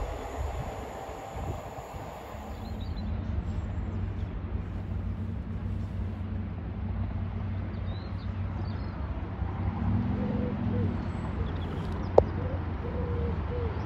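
Steady low hum of a distant approaching Class 8xx bi-mode train running on its underfloor diesel engines, slowly growing louder, with a few bird calls over it and one sharp click just after 12 seconds.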